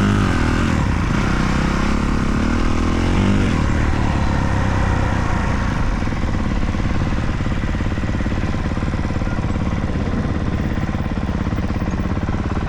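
Motocross dirt bike engines running on the track. One bike's pitch rises and falls in the first few seconds, then the engines settle into a steady drone.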